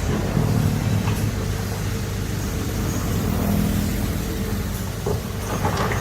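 Heavy diesel engine of earthmoving machinery running steadily, with a couple of faint knocks.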